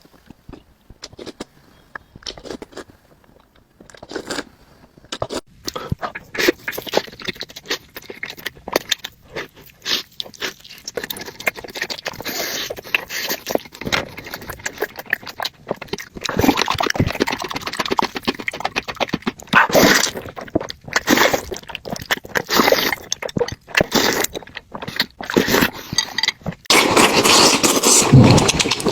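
Close-up eating sounds of barbecued meat being eaten: irregular crunching, chewing and scraping, with an occasional clink. They grow louder and denser in the second half.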